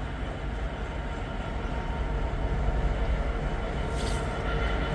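DB Cargo Class 66 diesel freight locomotive, with its two-stroke V12 engine, drawing a long rake of car-carrier wagons into the station. A steady rail rumble with a faint steady hum slowly grows a little louder, with a short high hiss about four seconds in.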